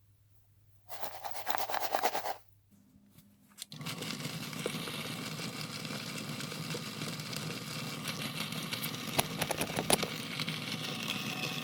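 A short burst of scraping, then about four seconds in a small power tool starts and runs steadily with a fast buzzing texture, stripping paint and rust from the fan parts.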